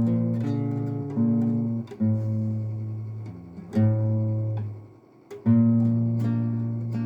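Acoustic guitar strumming slow chords, each struck once and left to ring and fade. There is a brief near-silent pause about five seconds in.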